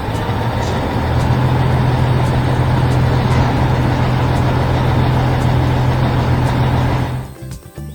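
Heavy machine's engine running steadily: a loud low drone with a rushing noise over it, swelling slightly about a second in and cutting off about seven seconds in.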